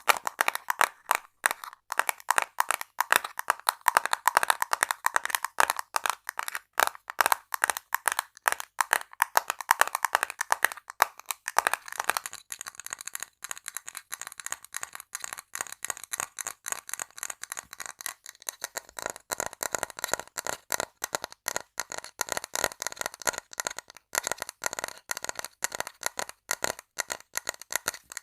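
Rapid ASMR tapping on assorted small objects, many taps a second. The sound of the taps changes about twelve seconds in and again around eighteen seconds, as the tapping moves to a different item.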